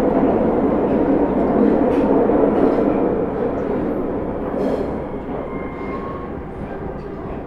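Osaka Metro 30000 series subway train with Hitachi SiC-VVVF inverter control running on the Midosuji Line: a dense rumble of wheels and car body that eases off from about four seconds in as the train slows, with faint thin tones near the end.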